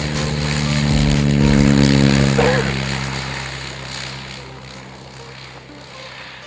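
Propeller aircraft flying past: a steady propeller hum grows louder to a peak about two seconds in, then fades away.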